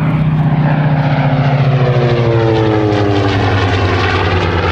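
Curtiss SB2C Helldiver's Wright Cyclone radial engine and propeller on a low pass overhead, the engine note falling in pitch as the plane goes by.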